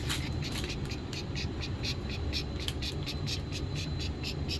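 Rapid, even chirping from a small calling animal, about four or five short high chirps a second, over a steady low rumble.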